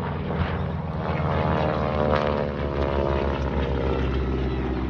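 Radial-engined propeller aircraft, the Yak Attack and a Harvard, flying past. The drone of their engines swells to a peak about two seconds in, then eases off.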